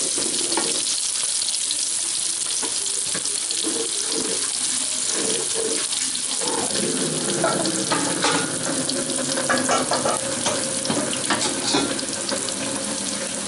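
Sliced shallots and chilies sizzling steadily in hot oil in a metal wok, sautéed and stirred continuously with a wooden spatula that scrapes and knocks across the pan.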